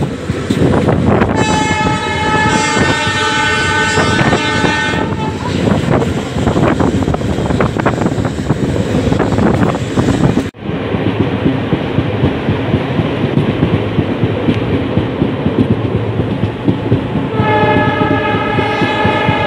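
Indian Railways passenger coach running at speed, its wheels clattering steadily over the rails. A locomotive's multi-tone air horn sounds twice: for about three and a half seconds starting about a second in, and again near the end. The sound drops out abruptly for a moment about halfway through.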